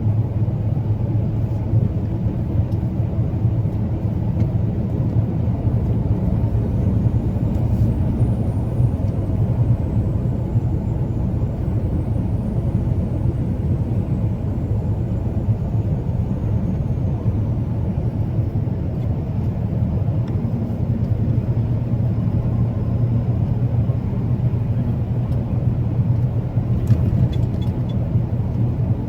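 Truck driving along: a steady low engine and road rumble.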